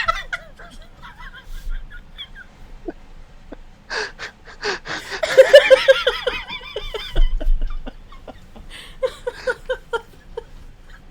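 A person laughing in quick breathy bursts, with a loud fit of laughter around the middle and a shorter one near the end.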